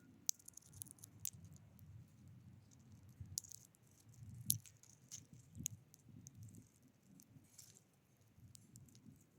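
Small birds pecking at seeds on a feeder: scattered light taps and clicks, some louder than others, over a faint low rumble.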